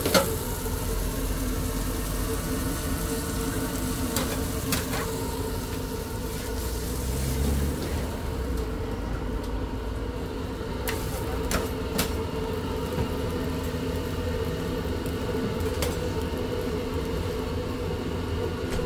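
Shawarma cooking noise: a steady machine hum, with food sizzling on a hot surface for about the first eight seconds, and a few sharp clicks scattered through.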